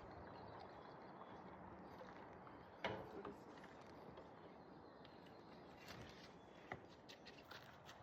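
Near silence with faint background hiss, broken by a few faint knocks or clicks, the clearest about three seconds in and a couple more near the end.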